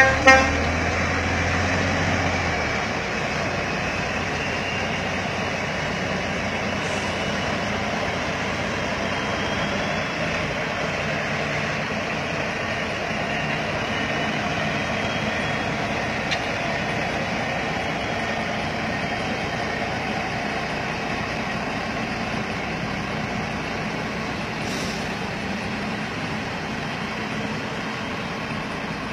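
Heavy coal-haul truck running steadily, its engine and tyre noise drifting slowly in pitch. A short horn toot sounds right at the start.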